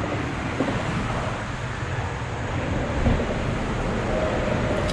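Steady rushing outdoor noise, heaviest in the low end, with no distinct events standing out.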